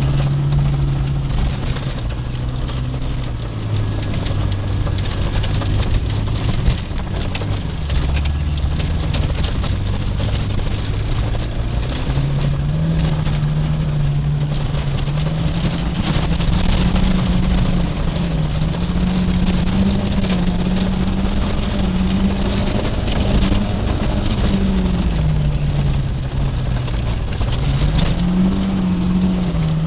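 VAZ-2108 (Lada Samara) four-cylinder engine being driven hard, its note dropping over the first few seconds, climbing again about halfway through and holding high, then dipping briefly near the end before rising once more, as the revs change. A steady rushing noise runs underneath.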